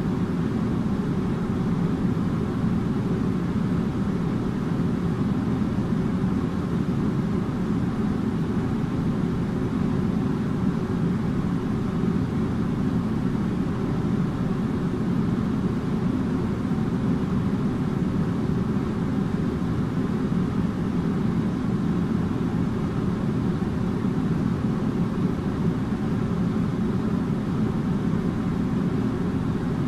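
Air conditioner running steadily: an even, low drone of fan and moving air with a faint steady hum, unchanging throughout.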